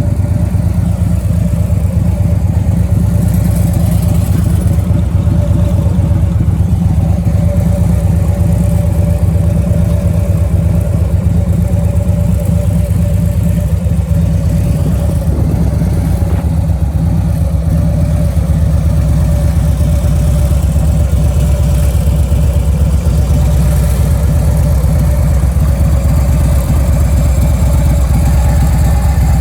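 2008 Harley-Davidson Street Glide (FLHX) air-cooled Twin Cam 96 V-twin idling steadily through Vance & Hines 4-inch mufflers.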